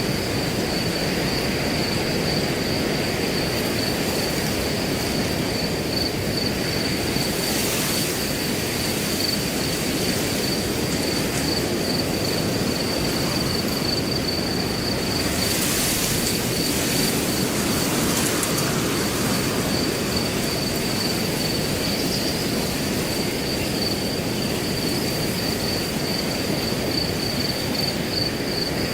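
Wind blowing steadily through grass, with a cricket chirping on and on in a fast, even high-pitched pulse. Twice, briefly, a gust brings a swell of higher hiss.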